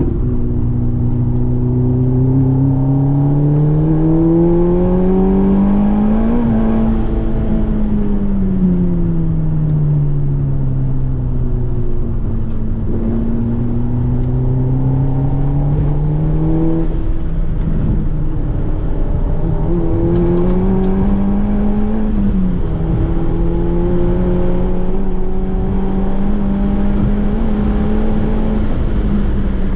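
Turbocharged Volkswagen track car's engine heard on board during a lap. The revs climb to a peak about six seconds in, fall away over the next few seconds and hold. After a short break near seventeen seconds they rise again around twenty seconds, then stay fairly steady.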